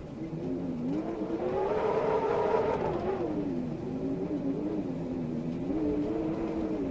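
Wind howling in a moaning tone whose pitch rises and falls, swelling to its highest and loudest a couple of seconds in, then sinking back and rising again near the end.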